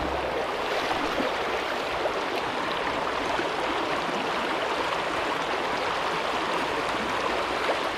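Creek water flowing steadily, an even rushing babble with no pitched sound in it.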